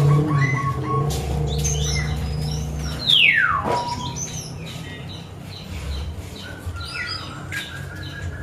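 Small birds chirping in short high notes, with one long whistle falling steeply in pitch about three seconds in.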